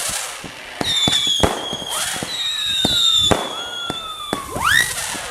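Consumer fireworks cake (a vintage Temple of Heaven 'Splendid Sound' 100-shot cake) firing hummers: several high whining hums overlap, some gliding down in pitch and one rising sharply near the end, punctuated by a few sharp report cracks.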